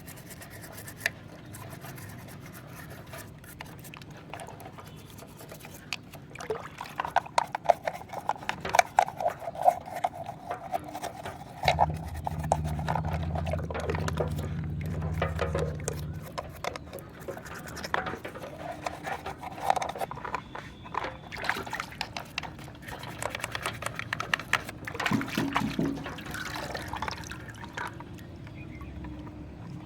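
Water pouring, dribbling and splashing as small plastic toy vehicles are washed, with many light knocks and clicks from the toys being handled.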